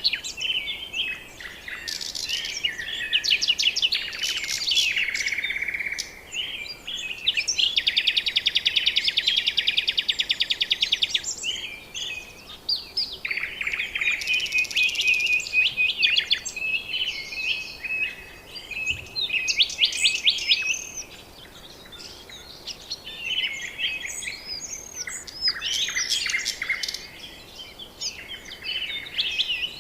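Several birds calling and singing over one another: a mix of chirps and short whistled notes, with a long, rapid, buzzy trill about a third of the way in.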